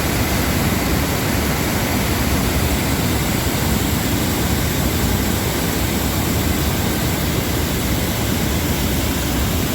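Heavy rain pouring down, a loud, steady rushing noise with no break.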